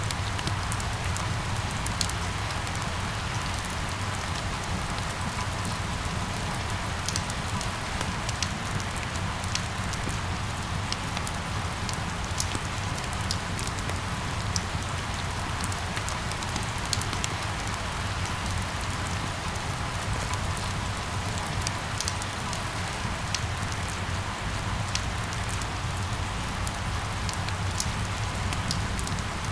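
Steady rain falling and pattering on hard surfaces, with scattered sharp drop ticks over a low steady rumble.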